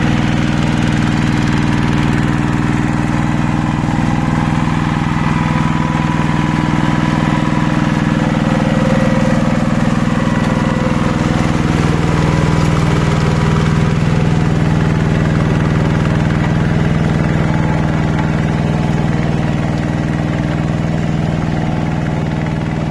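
Hand tractor engine running steadily at an even speed.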